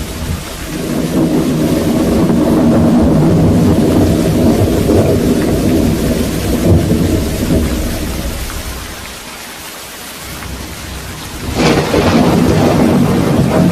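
Thunderstorm: thunder rumbling over steady rain. The rumble swells about a second in, dies down for a moment around ten seconds, then a sharp thunderclap breaks about eleven and a half seconds in and rolls on.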